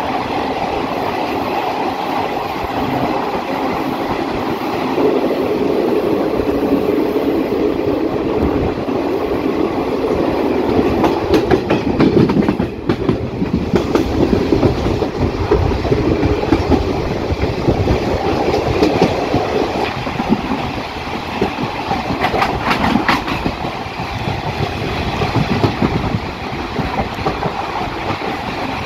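Passenger train running at speed, heard from the open doorway of a coach: a steady rumble of steel wheels on the track with repeated clickety-clack as the wheels cross rail joints, the clicks coming thicker in the second half.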